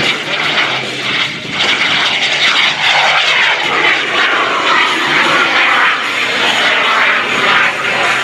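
Small turbojet engine of a jet-powered Super Salto sailplane passing overhead: a steady jet rush whose tone sweeps and shifts as the aircraft flies by.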